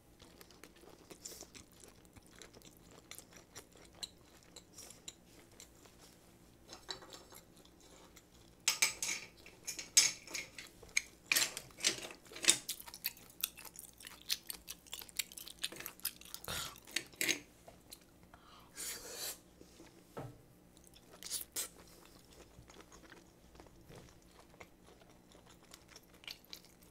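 Close-miked chewing of butter-grilled abalone. It is soft at first, then from about nine seconds in comes a long run of louder chewing and biting with sharp clicks, which eases off again in the last few seconds.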